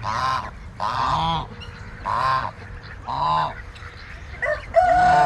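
Domestic goose honking four times, about once a second. Near the end a rooster begins a long crow.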